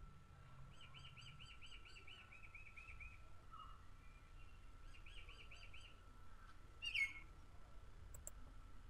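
Faint bird chirping in the background: two runs of quick repeated chirps, the first about two and a half seconds long and the second about a second long. Under them runs a faint steady high tone, and a brief sharp sound comes about seven seconds in.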